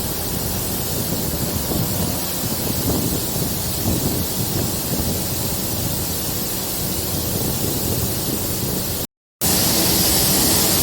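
Running noise of a DEMU train heard from on board: a steady low rumble of the train under way with a rushing wind hiss. The sound drops out for a moment about nine seconds in and comes back with a louder hiss.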